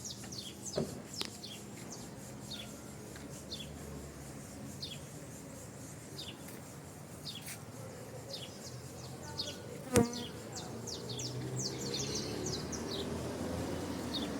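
Bees buzzing around a flowering tree: a steady drone that wavers in pitch. Short high chirps come and go over it, more of them near the end, and there is one sharp knock about ten seconds in.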